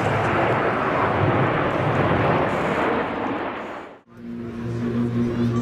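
Jet aircraft roaring past overhead, the noise fading away over about three seconds. It cuts off abruptly at about four seconds into a steady low drone with a constant pitch.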